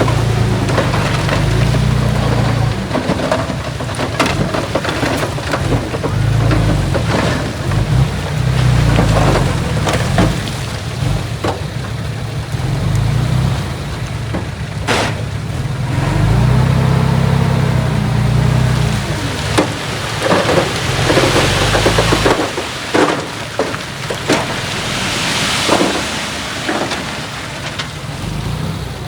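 Diesel engine of heavy earthmoving machinery working, its rumble rising and falling with load, with metal clanks and knocks. Near the end the engine drops away, leaving a hiss with sharp knocks as earth moves.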